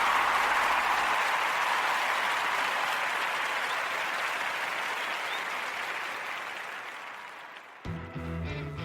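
Crowd applause fading out slowly over several seconds. Near the end, guitar music starts.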